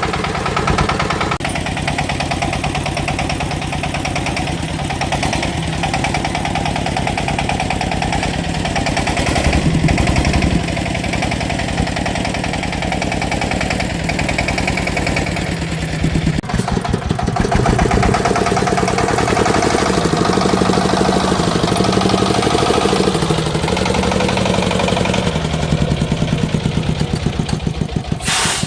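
Engine of a farm machine running for a long stretch, its speed rising and falling as it works. A short loud hiss comes just before the end.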